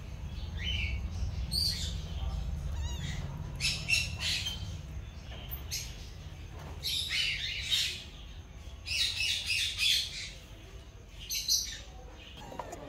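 Caged birds chirping and squawking in short high-pitched bursts, every second or two, with a low rumble underneath in the first half.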